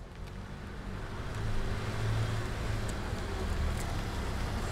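A car engine running with a steady low hum, growing louder over the first second and a half and then holding steady.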